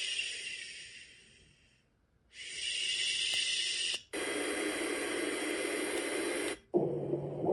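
Dream Egg white noise machine playing its built-in sounds one after another. A high, steady hiss fades out over about two seconds, and after a short silence a similar hiss starts. At about four seconds it switches to a fuller, rushing noise, and near the end to a lower sound with a steady low hum.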